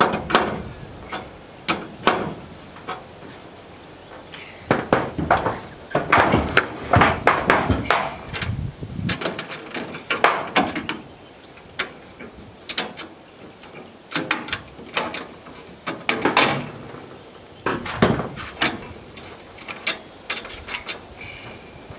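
Irregular knocks, clicks and clatter of metal hardware being handled and fitted, with bunches of quick rattling knocks every few seconds, as when solar panel mounting rails and their brackets are put in place.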